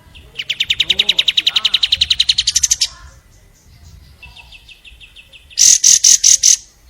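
Long-tailed shrike (cendet) singing: a fast, even trill of about ten notes a second lasting over two seconds, then a fainter trill, and near the end five loud, harsh notes in quick succession.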